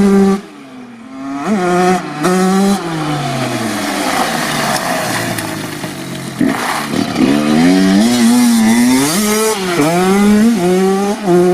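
Honda CR85's single-cylinder two-stroke engine revving hard under a rider's throttle. The revs drop sharply near the start, blip twice and fall away, then climb back up in several rising sweeps to a high, steady pitch.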